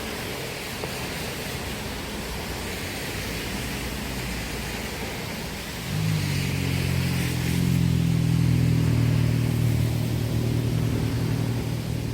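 Steady rush of stream water, then about six seconds in a vehicle engine's low hum comes in, loudest a couple of seconds later and easing off near the end.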